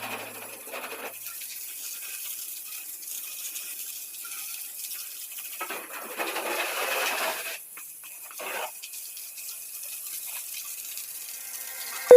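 Car being washed: a steady wet hiss with a louder surge about six seconds in and a shorter one near eight and a half seconds.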